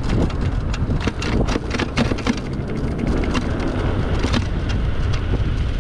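Wind rumbling over the microphone of a moving electric motorbike, with a run of sharp ticks and clicks through the first few seconds.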